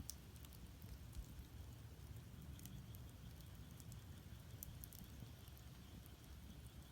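Firewood burning in an agungi, a traditional Korean wood-fired furnace: faint, scattered crackles and pops over a low steady rumble.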